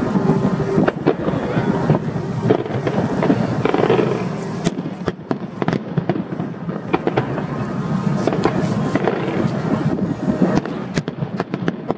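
Aerial fireworks display going off in quick succession: a continuous crackle under a dense run of sharp bangs and pops, heaviest in the second half and thinning near the end.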